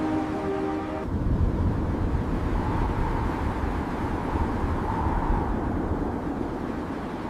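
Music with held notes cuts off about a second in, giving way to a steady low rumble with a faint high hum over it.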